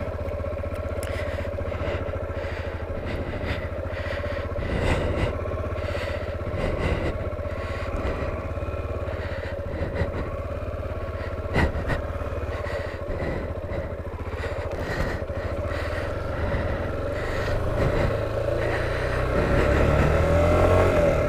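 Honda XR250L's single-cylinder four-stroke engine running steadily at low speed on a dirt trail, with a few sharp knocks and clatter from the bike over rough ground. The engine gets louder and the revs rise near the end.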